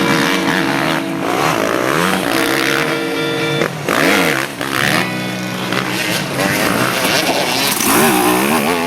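Motocross dirt bike engines revving, their pitch swinging up and down several times, over rock music with guitar.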